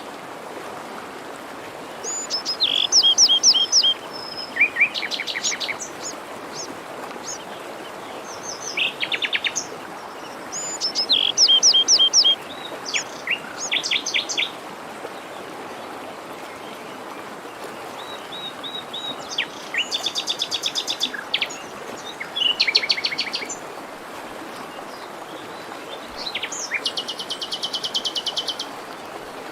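Several songbirds singing in bursts of quick, repeated chirping notes, some phrases fast trills, over a steady rushing hiss of a forest stream.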